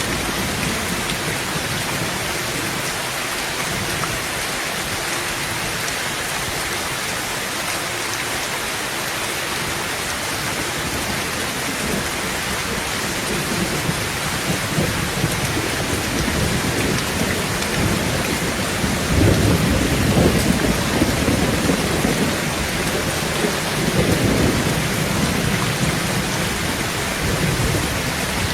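Heavy rain drumming steadily on a tin roof, with rolling thunder rumbling in about halfway through and peaking twice in the second half.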